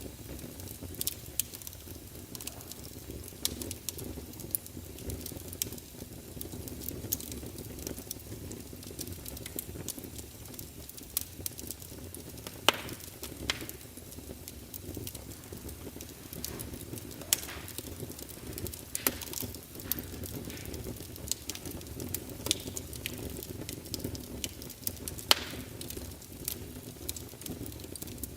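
Crackling fire: a steady low rumble with irregular snaps and pops, a few of them louder, scattered throughout.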